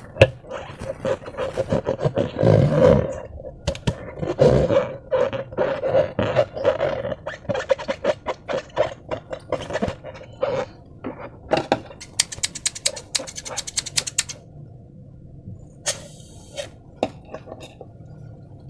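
Slime being squeezed and worked by hand, giving irregular wet squelches and crackles with low groaning squishes in the first half and a dense run of fine crackling about two-thirds of the way in.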